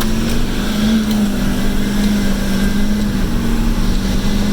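A GMC Denali pickup's stock 6.2-litre V8 running at full throttle during hard acceleration. The engine holds a steady, loud drone at nearly one pitch with small steps, as the 8-speed automatic shifts.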